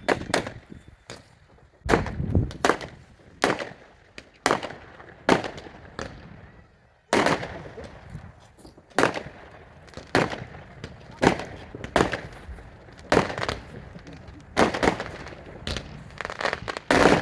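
Fireworks display: a string of sharp, loud bangs about once a second, each trailing off in a short echo. There are brief lulls soon after the start and about six seconds in.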